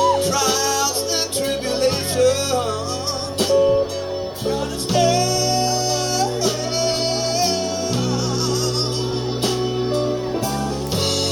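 Live blues band playing an instrumental passage, with a lead line that bends and slides in pitch over bass notes that change every second or two.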